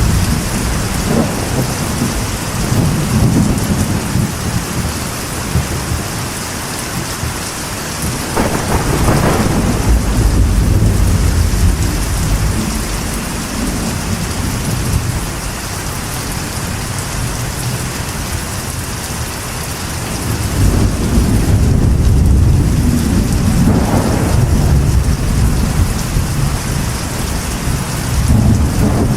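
Steady rain drumming on a metal roof, with thunder rumbling in several long low swells; the longest comes in the second half.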